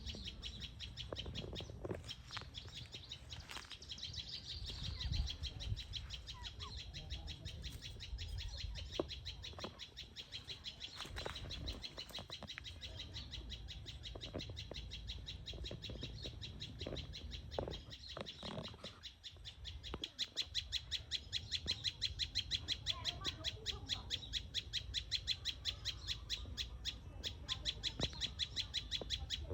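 Chickens foraging, with a fast, evenly repeated high chirping that grows louder and steadier about two-thirds of the way through, and scattered short taps.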